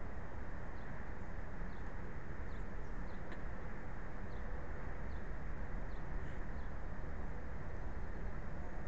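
Steady low hiss, with a bird's faint, short, high chirps repeating a little more than once a second.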